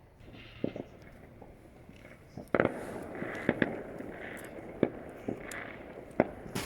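Fireworks going off at a distance: scattered sharp bangs and pops, several close together from about two and a half seconds in, over a continuous crackle of many rockets bursting across the neighbourhood.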